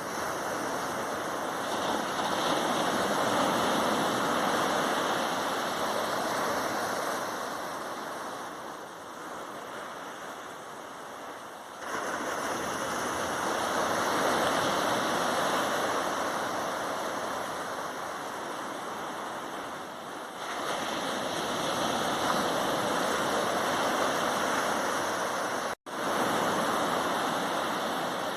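Sea waves breaking on a sandy shore, each wave swelling into a wash of surf and fading as it runs back, about every eight to twelve seconds. The sound cuts out for a moment near the end.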